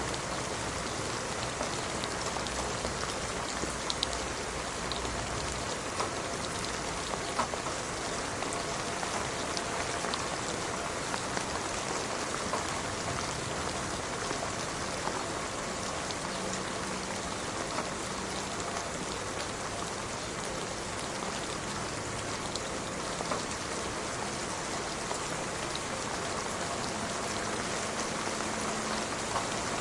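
Steady rain falling, a dense even hiss with scattered single drops ticking through it.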